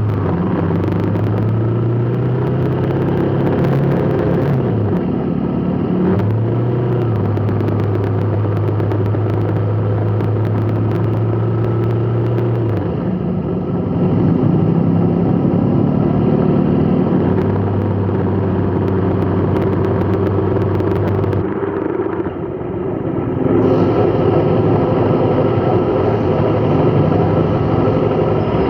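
A road vehicle's engine running in traffic, a steady low drone that shifts in pitch several times and briefly drops away a little after the middle.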